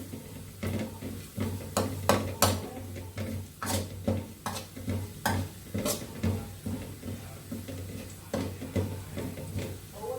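A utensil knocking and scraping against a cooking pot while food is stirred: irregular sharp clinks, about one or two a second, over a steady low hum.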